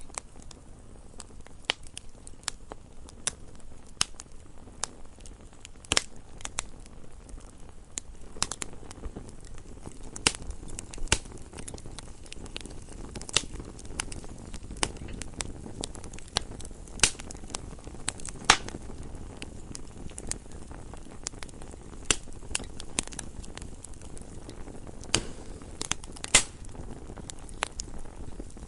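Wood fire burning in a fireplace: irregular sharp crackles and pops from the burning logs over a low, steady rush of flame.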